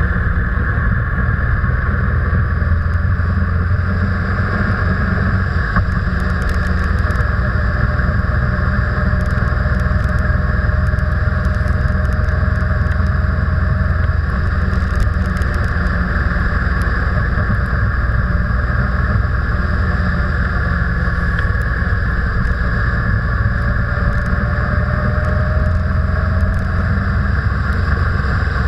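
Steady engine and road noise from a vehicle being driven, with a continuous low rumble and a faint tone that slowly shifts in pitch.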